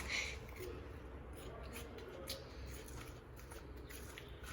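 Onions frying in hot oil in a pan, a faint steady sizzle with a few scattered crackles.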